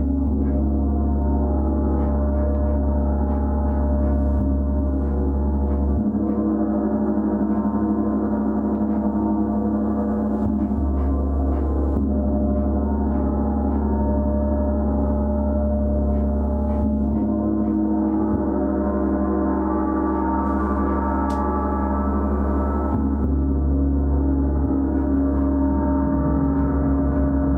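A gong played continuously as a sustained, shimmering wash of many overlapping tones, with no gaps. Its deepest tones swell and change every few seconds as the gong is kept sounding.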